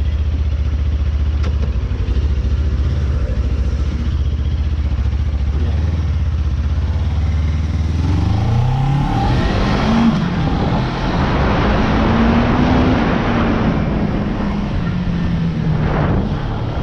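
Suzuki GSX250R's 248 cc parallel-twin engine idling steadily, then pulling away about eight seconds in, its pitch rising, dipping at a gear change and rising again. Wind noise on the helmet microphone builds as the bike gains speed.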